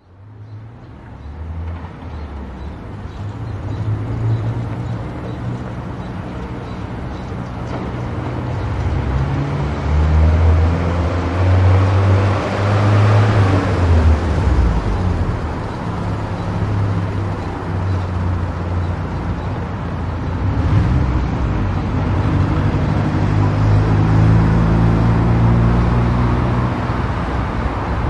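Car driving at highway speed: a low engine drone that shifts in pitch, under steady tyre and road rush. The sound fades in at the start, and the rushing swells for a couple of seconds around the middle.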